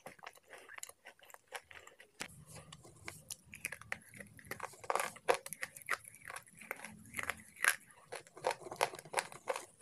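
Slate pencil pieces being bitten and chewed: a run of sharp, dry crunches and clicks, loudest about five seconds in and again near eight seconds.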